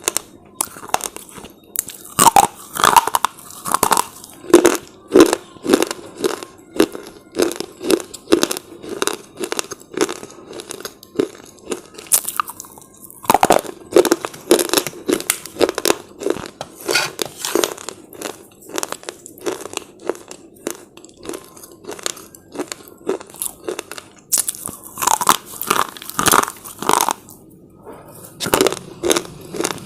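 A person biting into and chewing crunchy slate chips close to the microphone. There are quick, dense crunches throughout, with louder clusters of bites three times: soon after the start, near the middle and near the end.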